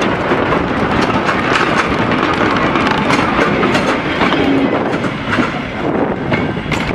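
Train running past close by: a loud, steady rush of noise with the wheels clicking and clattering over the rail joints.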